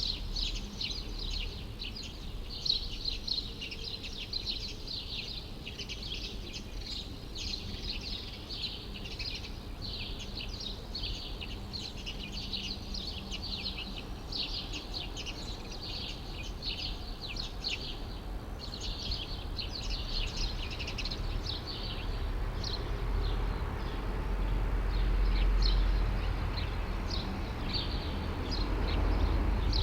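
Many small birds chirping densely and continuously, the chirping thinning out about two-thirds of the way through. A low traffic rumble swells twice near the end.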